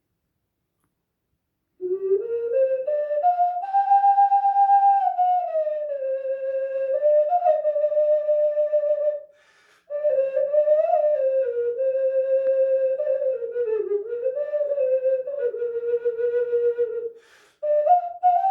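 Five-hole ocarina playing a slow single-line melody, starting about two seconds in. It stops briefly about halfway through and again near the end.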